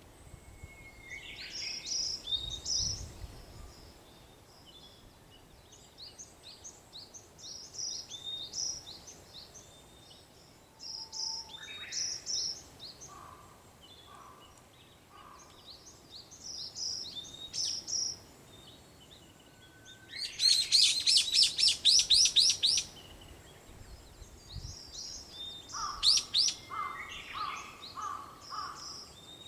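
Several songbirds singing in the early-morning dawn chorus. Short high chirps repeat throughout, a loud rapid trill comes about two-thirds of the way in, and a run of lower repeated notes follows near the end.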